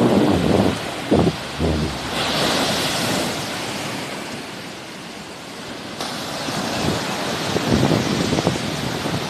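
Sea waves washing onto the shore, with a louder rush of surf about two seconds in. Wind buffets the microphone in low rumbling gusts at the start and again near the end.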